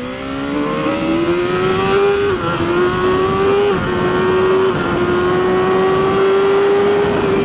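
BMW S1000RR superbike's inline-four engine under hard acceleration, its pitch climbing for about two seconds and then holding high with a few brief dips as it shifts up, over steady wind rush at speed.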